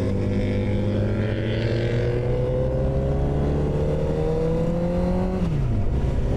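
Honda CBR motorcycle engine under way, its pitch climbing slowly and steadily for about five seconds, then falling away sharply near the end, with wind noise on the microphone.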